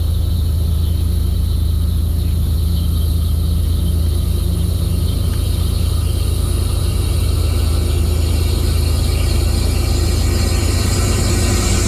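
Approaching diesel locomotive, heard as a steady low engine rumble. From about ten seconds in, a rising hiss of steel wheels on the rails joins it as the train nears.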